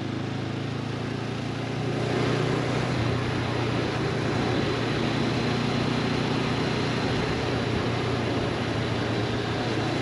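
Honda CB500X parallel-twin engine running under way through bends, with a steady rush of wind noise over it; the engine gets louder about two seconds in.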